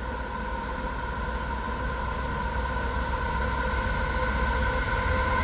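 Coal train's diesel-electric locomotives approaching, a low rumble with a steady high whine, growing gradually louder as they near.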